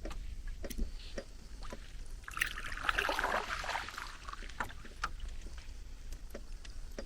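A paddle stroke from a small paddled boat: a splash of water about two and a half seconds in, lasting about a second and a half. Scattered light clicks and knocks run around it.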